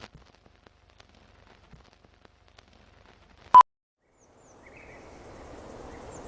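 Faint scattered crackling, then a single short, loud single-pitched beep about three and a half seconds in. After a moment of dead silence, outdoor ambience fades in with a faint high chirp.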